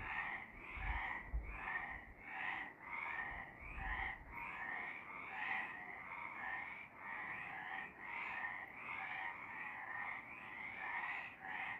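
Several frogs croaking together in a chorus, their overlapping calls repeating steadily about twice a second.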